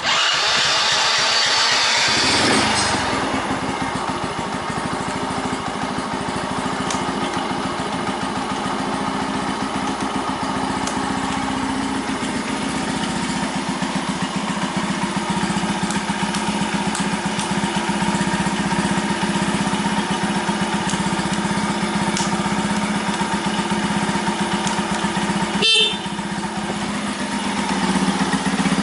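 Honda Magna 50's small four-stroke single-cylinder engine catching and starting, louder and higher for the first two seconds or so, then settling into a steady idle. A short dip with a click comes near the end.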